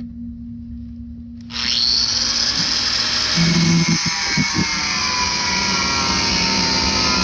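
Electric chop saw switched on about a second and a half in and running at full speed, loud and steady, for cutting an aluminium piece; a low hum is heard before it starts.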